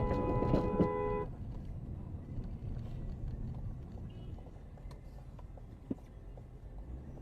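A two-note car horn held down, stopping about a second in, followed by the low rumble of car and road noise.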